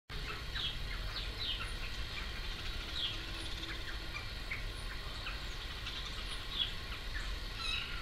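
Birds calling with many short, falling chirps, a few each second, over a low steady rumble.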